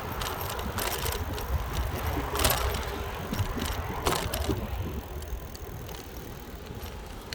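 Bicycle being ridden: a low rumble of wind and road on the microphone, with three sharp rattles from the bike, the loudest about two and a half seconds in.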